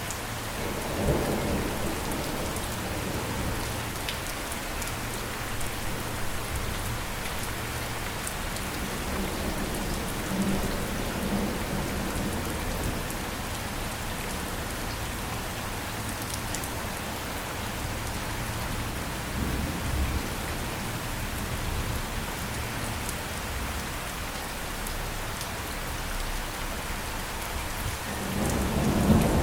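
Steady rain falling, with low rolls of thunder: one about a second in, more around the middle, and a louder roll building near the end.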